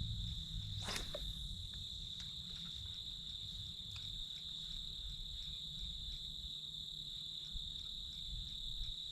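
Insects singing in one steady high-pitched trill, with a brief click about a second in.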